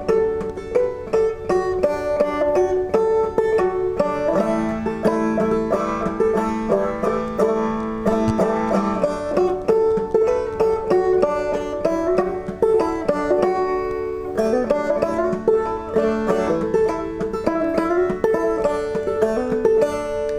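Five-string banjo played clawhammer style: a steady run of quick plucked melody notes.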